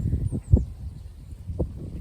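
Wind buffeting the microphone outdoors in falling snow: irregular low rumbles and thumps, sharpest about half a second in.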